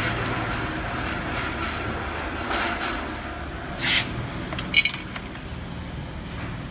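Handling noise over a steady low hum: a short rustling scrape about four seconds in, then a single bright metallic clink, as of metal parts or a tool knocked together.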